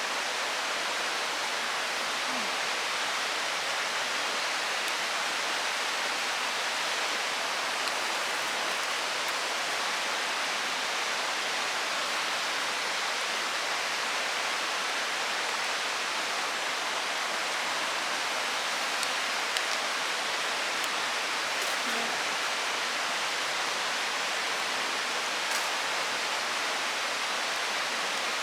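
Steady rushing of a mountain stream flowing over rocks, with a few faint ticks in the later part.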